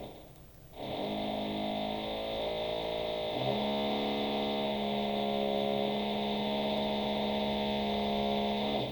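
Electric drill running in the flat above, heard through the ceiling as a steady hum with a thin high whine. It starts about a second in, shifts pitch a little partway through, and cuts off near the end.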